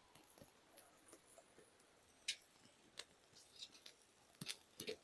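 Near silence with faint, scattered crackles and ticks from cooking over a small wood fire; a few sharper clicks come around the middle and near the end.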